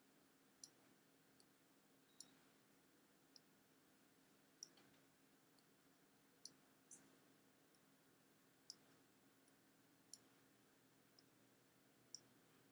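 Faint, irregularly spaced computer mouse clicks, about one a second, over near silence.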